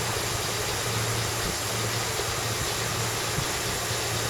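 Four-wheel-drive vehicle's engine idling steadily, over an even background hiss.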